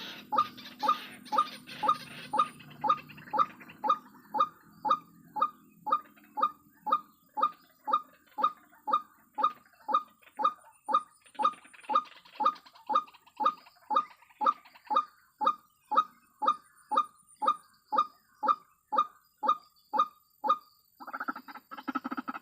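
White-breasted waterhen (ruak-ruak) calling: a long, very regular run of short honking notes, about two a second. Near the end it gives way to denser, continuous calling.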